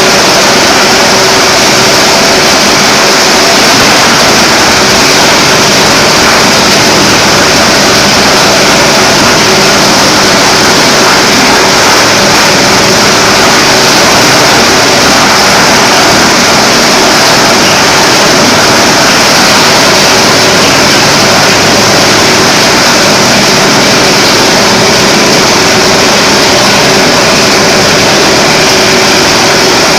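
Plastic grinder machine running steadily: a loud, even, hissing machine noise with no pauses or changes.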